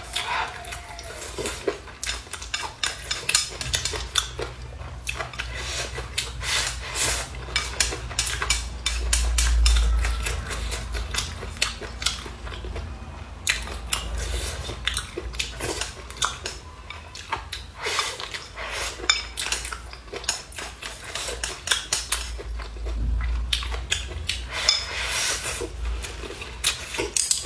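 Eating at a table: utensils repeatedly clicking and scraping against bowls and dishes, many short clicks in a row, with chewing close by.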